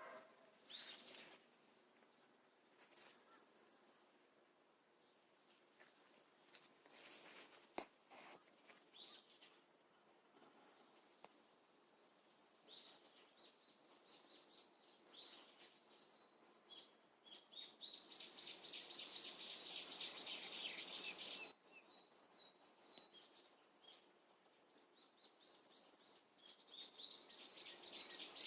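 Wild birds singing: scattered short chirps, then a fast trill of rapidly repeated high notes lasting about three seconds past the middle, with another trill starting near the end.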